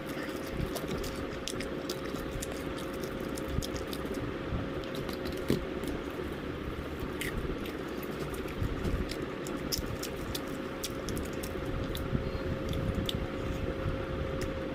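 Someone biting and chewing KFC fried chicken, with many small sharp clicks scattered throughout, over a steady hum.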